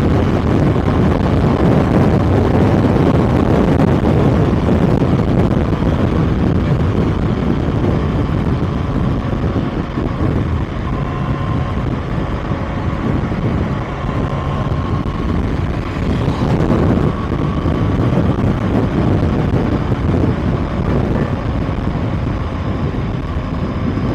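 Kawasaki ZX-6R's inline-four engine running at a steady cruise while riding, mixed with heavy wind rush on the mounted microphone.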